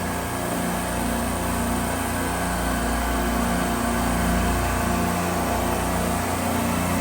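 Steady hum of running refrigeration machinery: an even low drone with a broad hiss over it and no changes.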